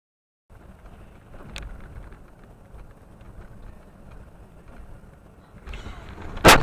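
Steady road noise from a moving vehicle, with a small click a little after a second in, then a loud, sudden bang near the end: a car collision.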